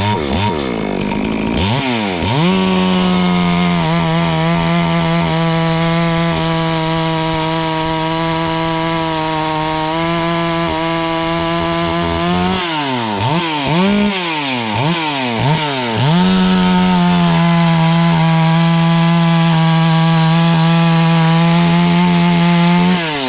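FarmMac F380W 72cc two-stroke chainsaw blipped up and down, then held at full throttle at a steady high pitch for about ten seconds, blipped again several times, held at full throttle once more, and let drop back toward idle at the end. Its high-speed mixture screw has just been turned leaner by about an eighth of a turn, so the engine runs out at high revs.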